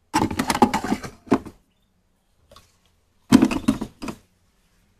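Small plastic toy kitchen pieces being handled, clattering and clicking against each other in two short bursts.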